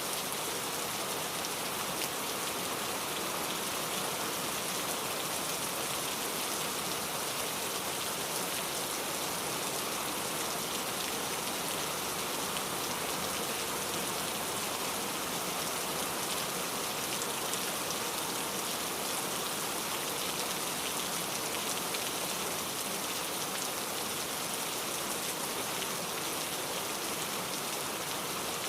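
Steady rain falling, a continuous even hiss of drops with fine patter.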